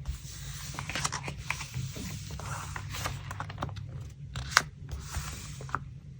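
Paper and craft materials being handled: rustling and crinkling paper with small taps and clicks, and one sharper click about four and a half seconds in.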